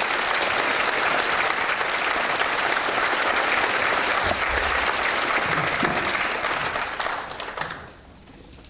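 Concert audience applauding, a dense steady clapping that dies away in the last second or so.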